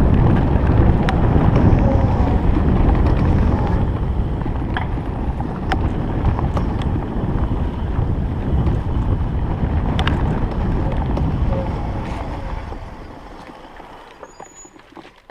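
Wind buffeting the microphone on a moving electric bike, with scattered sharp knocks and rattles from the ride. The wind noise dies away over the last few seconds.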